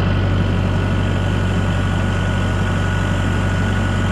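An engine running steadily at an even speed, a constant low hum with a faint steady whine above it.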